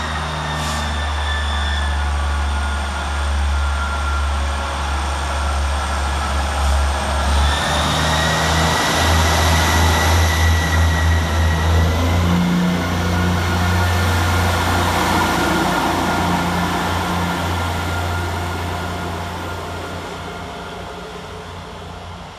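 ScotRail Class 158 diesel multiple unit running into the station: a steady low engine hum under a high whine that steps up in pitch about a third of the way in, with wheel and rail rushing noise loudest about halfway through, then fading away near the end.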